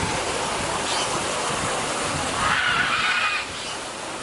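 A caged parrot gives a drawn-out call, about a second long, two and a half seconds in, over a steady rushing noise of wind on the microphone.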